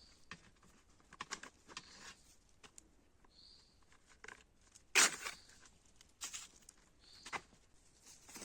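Dry twigs and leaves rustling and crackling as they are handled or stepped on, with a few sharp snaps about five, six and seven seconds in.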